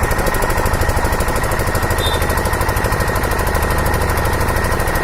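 An engine running steadily with a fast, even knocking pulse and a faint steady high whine.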